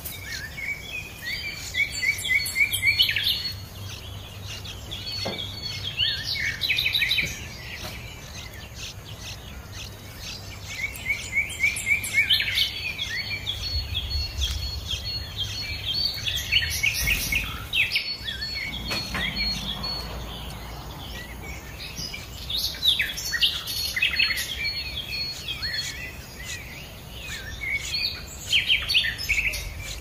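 Wild birds chirping and calling in quick bouts every few seconds, over steady low background noise.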